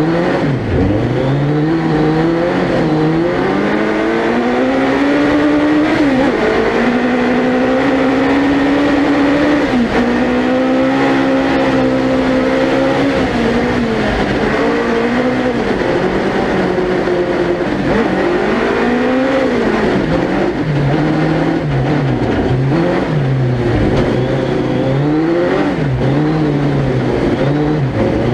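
Suzuki Hayabusa 1300cc four-cylinder motorcycle engine in a four-wheel-drive ice-racing buggy, revving hard through the gears. Its pitch climbs and drops sharply again and again with the shifts, and is held high for several seconds in the middle.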